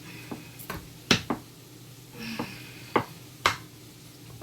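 Sharp clicks and knocks of things being handled on a kitchen counter, about seven separate hits in a few seconds, over a low steady hum.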